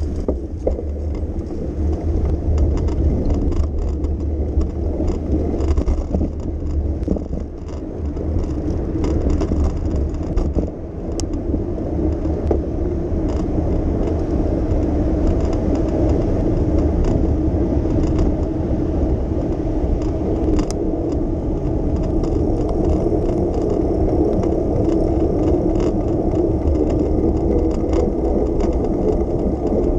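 Steady rolling noise of a bicycle ride on city streets: tyre and road noise with a low rumble, and scattered light rattles and clicks.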